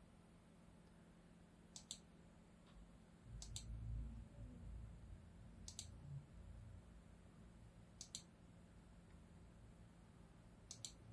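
Computer mouse clicking, a quick double click about every two seconds, five times, over a faint steady hum. A low rumble lasts a second or two near the middle.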